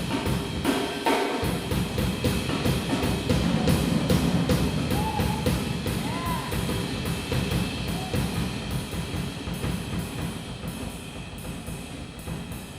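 Jazz drum kit solo: fast strokes on snare, bass drum and cymbals, gradually getting softer toward the end.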